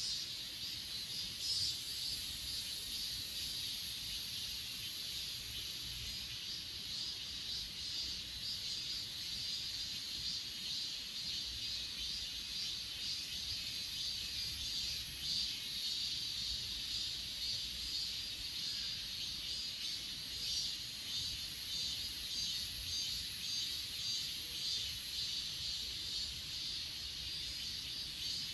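A chorus of grass insects, crickets and the like, chirring steadily in two high-pitched layers with a fine pulsing rhythm; the highest layer is louder for the first few seconds.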